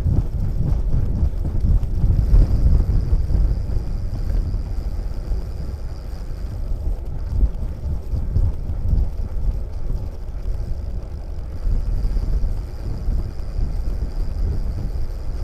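Wind buffeting the microphone: an uneven low rumble that swells and dips throughout.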